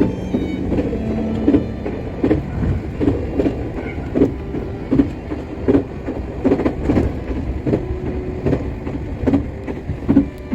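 Iyotetsu electric train running, its wheels knocking over the rail joints in a steady clickety-clack, roughly one or two knocks a second, over a continuous low rumble.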